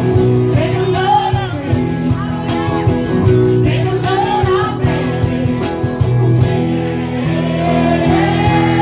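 A song with voices singing over guitar accompaniment.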